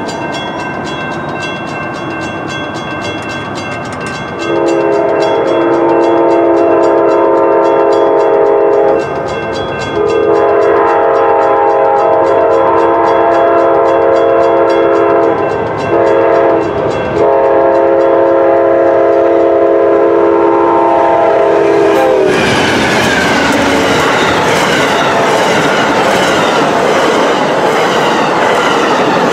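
Amtrak diesel passenger train approaching a grade crossing, blowing a multi-tone air horn in the long, long, short, long crossing signal over the fast ticking of the crossing bell. About 22 seconds in the horn cuts off and the train passes at speed, a loud rush with wheels clattering over the rail joints.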